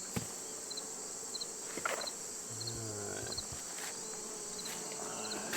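Late-summer insect chorus: a steady high-pitched drone with short paired chirps repeating about every half second. A brief low buzz passes about two and a half seconds in, and a few faint clicks sound.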